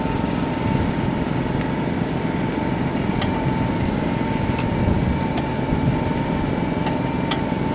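Two-stroke dirt bike engine, fitted with a freshly repaired FMF expansion chamber, running steadily without revving.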